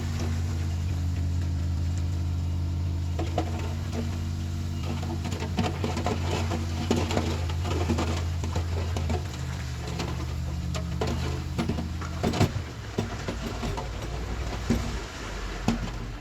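Komatsu D31PX bulldozer's diesel engine running steadily, with scattered short knocks and clanks. The engine note drops back about nine seconds in and weakens further after about twelve seconds.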